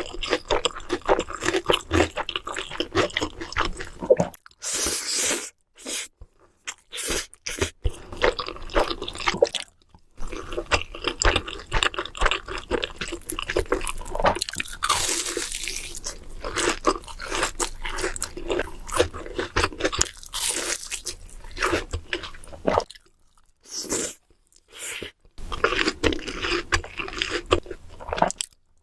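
Close-miked chewing and crunching as a person eats, with repeated bites and crackles, broken by a few short silences.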